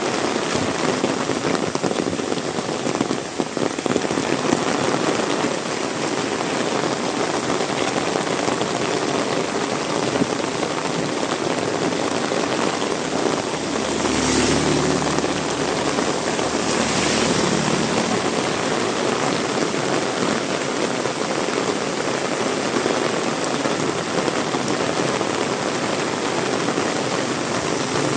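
Heavy rain pouring steadily, a dense even hiss of water. About halfway through, a low steady hum comes in for a few seconds under the rain.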